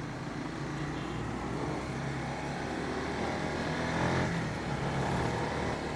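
Honda CBR150R's single-cylinder engine running under way, its note rising and falling a little with the throttle.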